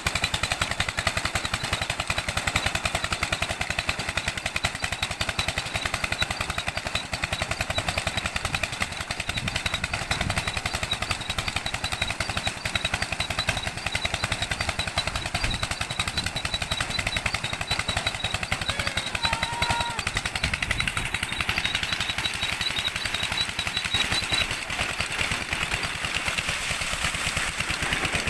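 Single-cylinder 'Peter' diesel engine driving a tube well pump, running steadily with a fast, even train of exhaust beats.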